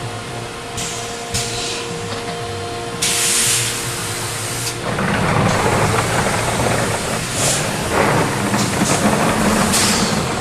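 Biesse Rover CNC router at work: a steady machine hum with short spurts of air hiss, then from about halfway a louder rough cutting noise.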